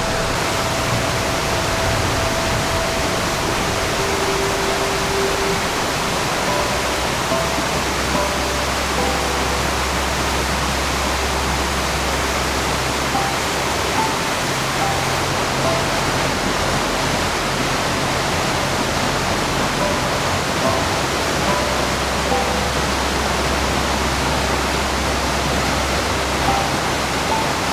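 Rushing water of a mountain stream, a steady full rush of flowing rapids. Soft background music with slow low chords and scattered single notes plays underneath.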